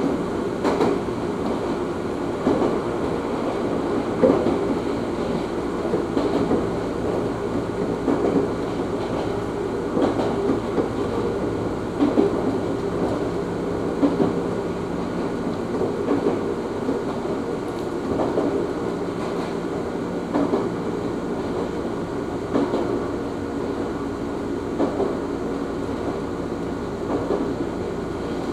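Ohmi Railway train running, heard from inside the car: a steady rumble and hum, with sharp wheel knocks about every two seconds as the wheels cross rail joints.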